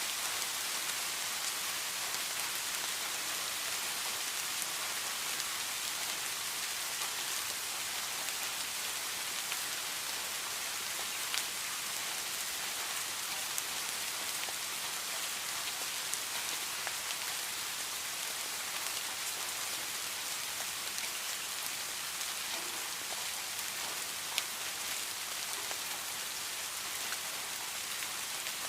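Steady heavy rain falling and pattering on surfaces, with scattered individual drop ticks, a couple of them sharper than the rest.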